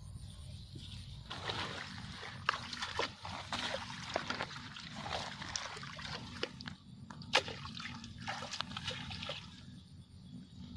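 Water splashing and sloshing in irregular bursts, with scattered clicks and one sharp click about seven seconds in.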